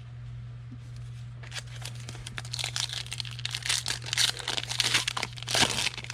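A trading-card pack's wrapper being torn open and crinkled: a dense run of crackling and tearing that starts about a second and a half in. A steady low hum runs underneath.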